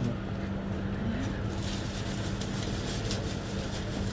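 Steady low machine hum with scattered light clicks and rustling.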